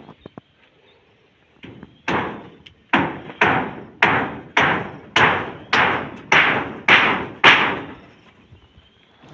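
Hammer blows on corrugated iron roofing sheets (mabati): about ten even strikes, a little under two a second, each ringing briefly.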